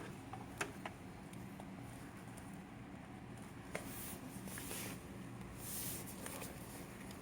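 Small plastic toy figures and furniture being handled and moved on a tabletop: a few light clicks and taps, with two short bursts of rustling about four and six seconds in.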